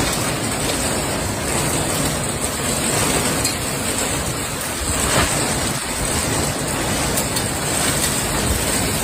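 Steady rushing storm noise of heavy rain and wind.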